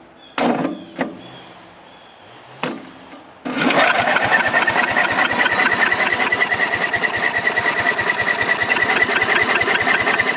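A few short knocks, then, about three and a half seconds in, the Sears Companion lawn tractor's engine being cranked by its starter motor, wired directly to the battery. It turns over steadily in rapid even pulses with a high starter whine but does not fire, which the men later put down to no spark.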